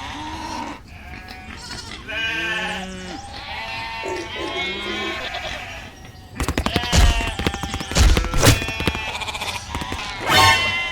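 A series of wavering, bleat-like calls, then from a little past halfway a loud clatter of rapid clicks and knocks.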